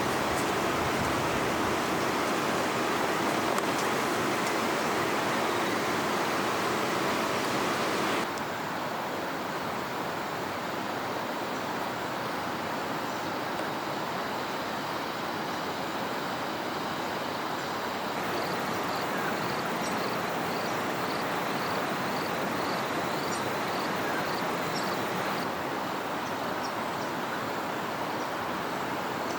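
Steady rush of flowing river water, which drops in level about eight seconds in. Later a short, high chirping call repeats about twice a second for several seconds.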